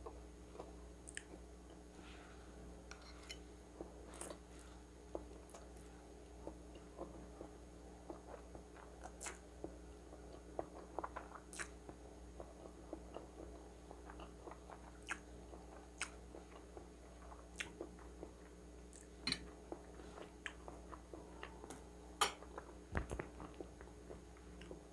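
Close-miked eating sounds: chewing with many short, wet mouth clicks and smacks scattered throughout, and slurping of spaghetti carbonara noodles.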